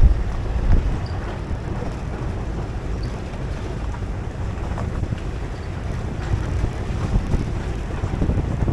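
Wind buffeting the microphone over a steady low rumble, as from riding in a moving vehicle.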